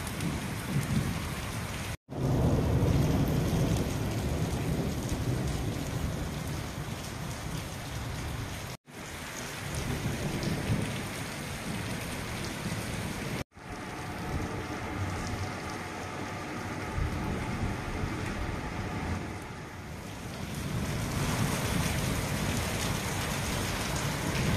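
Rain falling in a thunderstorm, with a low thunder rumble between about two and nine seconds in. The sound drops out briefly three times where clips are joined.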